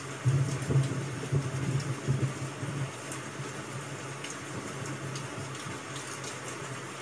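Steady rain ambience, with an uneven low rumble in the first two seconds or so and scattered faint ticks.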